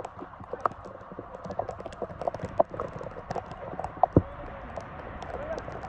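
Irregular thuds and taps of players' feet and a football on a wet pitch during play, with one sharp, louder kick-like thump about four seconds in, over a steady hiss of rain.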